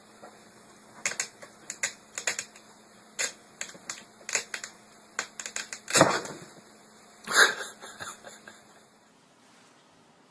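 A run of irregular, sharp clicks and taps, like typing, that stops about nine seconds in.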